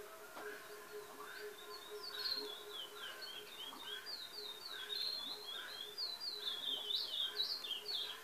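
Small birds chirping: a quick, continuous string of short, high notes that slide downward, with softer chirps lower down and a faint steady hum underneath.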